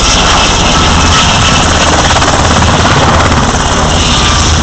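Black Hawk helicopter moving in close, its rotor and engines loud and steady.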